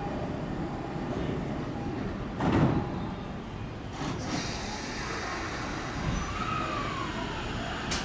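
Electric commuter train running at a station platform: a steady rumble, a short loud noise about two and a half seconds in, and a brief whine that rises and falls a little after six seconds in.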